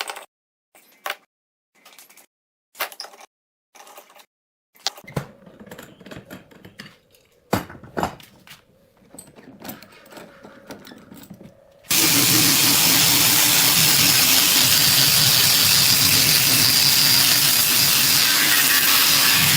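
A series of short knocks and taps, then about twelve seconds in an electric woodworking power tool switches on suddenly and runs steadily and loudly.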